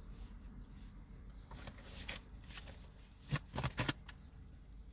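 Deck of cards being shuffled and handled: a series of short papery flicks and slaps, with several in quick succession about three and a half seconds in.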